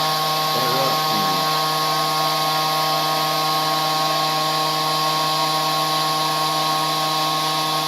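Desktop CNC router spindle running steadily with a constant whine, its 1/8-inch end mill cutting EVA foam.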